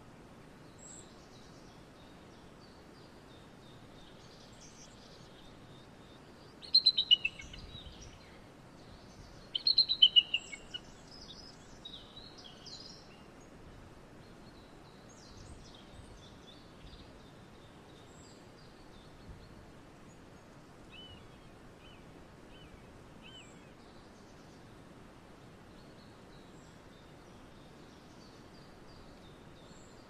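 A bird calls in two loud bursts of rapid, high-pitched notes about seven and ten seconds in, then gives fainter scattered chirps over a steady hiss.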